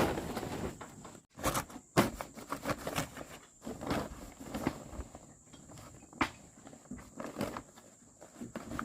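Irregular knocks and clicks, a dozen or so scattered sharp strikes, with the loudest about two seconds in and again past the six-second mark.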